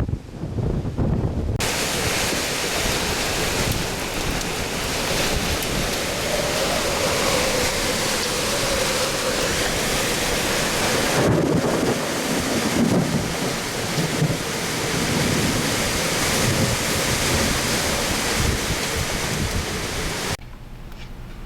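Severe thunderstorm: gusting wind buffets the microphone, then about two seconds in a loud, steady rush of wind-driven heavy rain takes over. It cuts off suddenly near the end.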